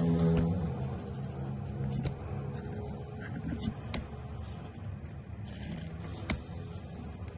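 Alcohol marker nibs stroking across paper in short scratchy passes, with a few sharp clicks in between.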